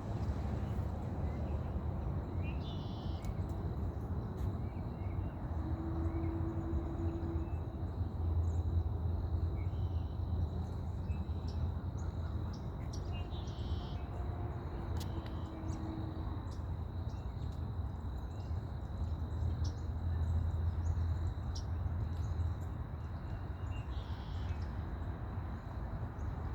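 Outdoor ambience with a few scattered bird calls over a steady low rumble.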